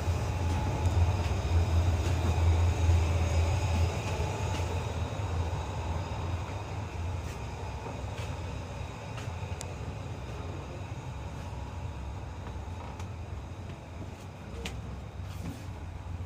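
Steady low rumble of a moving vehicle, louder in the first few seconds and then easing, with a few faint clicks over it.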